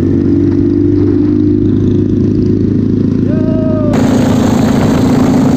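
Motorcycle engine running steadily on the move, with a short pitched note near the three-second mark. About four seconds in, the sound cuts abruptly to a steady whirring hiss.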